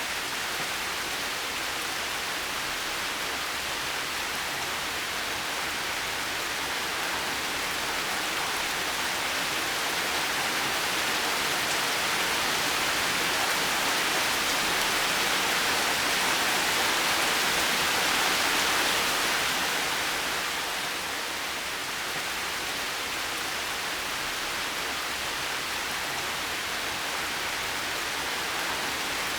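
Heavy rain falling steadily, an even hiss that swells somewhat through the middle and eases back.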